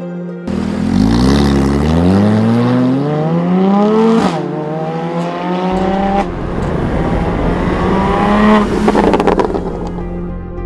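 Porsche Cayman 981 flat-six with an Armytrix valvetronic exhaust accelerating hard. The engine note climbs in pitch through three gears, with two quick upshifts. It ends in a burst of exhaust crackles and pops as the throttle lifts.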